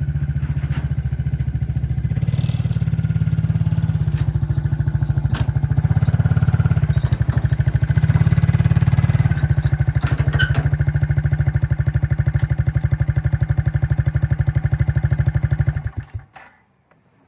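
An engine running steadily with a fast, even beat, then switched off about sixteen seconds in, sputtering through a few last beats to a stop.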